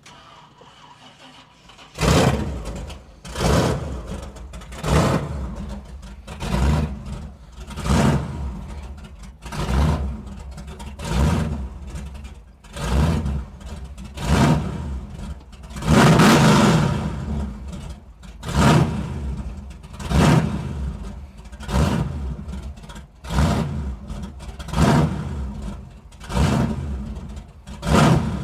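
Supercharged big-block Chevy V8 starting up about two seconds in, then revved in short, repeated throttle blips, roughly one every one and a half seconds, with one longer rev midway.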